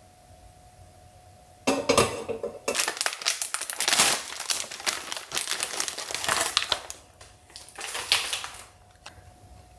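Crinkly material being handled and crumpled in a run of loud, irregular crackles starting about two seconds in and easing off near the end.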